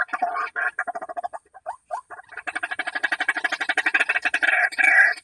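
White-breasted waterhen (ruak-ruak) calls, a series of repeated croaking notes with a few short rising notes in the middle. About halfway through they turn into a fast, even rattle of pulses.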